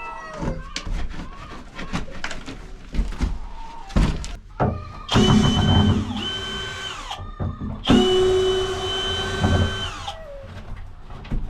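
A small electric motor, like a power tool, runs in two steady bursts of about two seconds each with a high whine, starting and stopping abruptly, after a few seconds of clattering and knocking.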